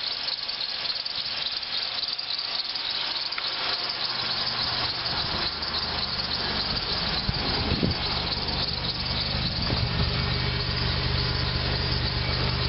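A Pontiac Grand Am GT's 3.4-litre pushrod V6 idling steadily after a cold start, with a steady high hiss over it. About five seconds in, the low engine note grows much stronger.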